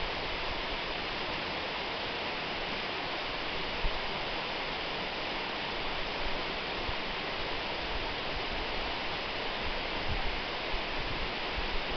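Waterfall: water falling and splashing in a steady, even rush, with a brief low bump about four seconds in.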